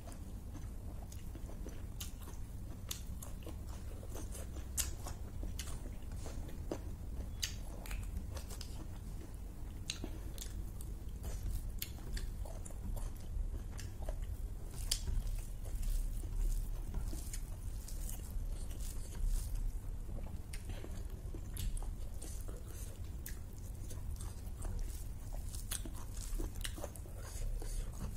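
Close-up chewing and mouth sounds of someone eating rice and beef curry by hand, with many small irregular clicks and smacks, over a steady low hum.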